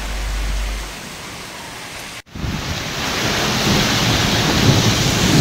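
Heavy rain pouring down in gusty wind, with a low rumble of wind on the microphone. The sound drops out for an instant about two seconds in and comes back louder.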